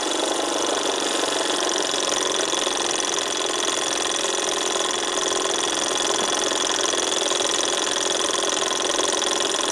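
Davies Charlton hot air engine running steadily on its ceramic gas burner, an even mechanical running sound that holds the same pace throughout.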